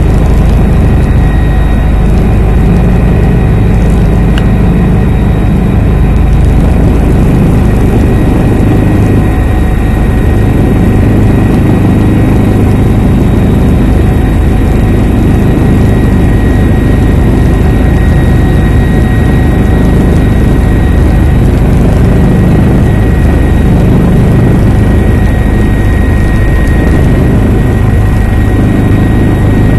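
Helicopter in flight: loud, steady rotor and engine noise with a thin, steady high whine over it.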